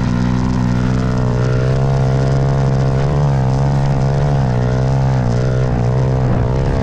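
Dirt bike running as it is ridden: a steady drone whose pitch wavers slightly up and down with the throttle.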